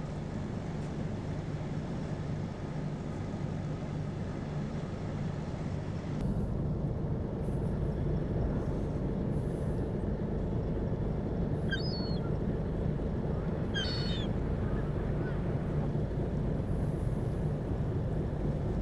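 River icebreaker's engine running steadily under way, a low even hum that gets a little louder after a cut about six seconds in. Two brief high chirps sound over it in the second half.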